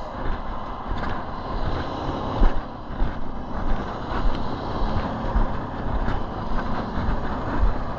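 Outdoor roadside noise: traffic going by, with wind buffeting the microphone. There is one sharp knock about two and a half seconds in.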